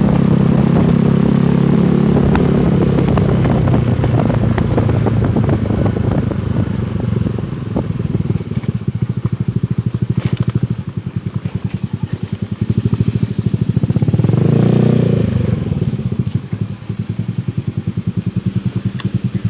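Honda Spacy scooter's single-cylinder engine through an aftermarket Nob1 exhaust, running steadily under throttle at first. It then eases off to a slower run of distinct exhaust beats, revs up briefly about three-quarters of the way through, and settles back to the beats.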